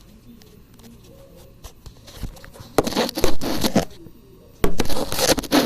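Paper being handled and folded, crinkling and scraping in two loud bursts, the first about three seconds in and the second near the end, with scattered clicks.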